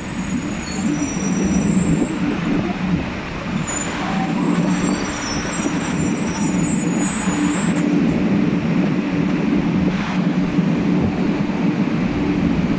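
A 500 series Shinkansen train at the platform, slowly drawing to a stop, with a steady low hum from the train. Faint high-pitched squeals come and go through the first eight seconds or so.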